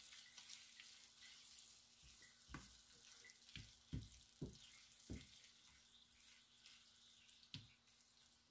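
Faint sizzling of cubed chicken, onions and leeks frying in a nonstick skillet, with soft scattered knocks as a silicone spatula stirs and scrapes the pan.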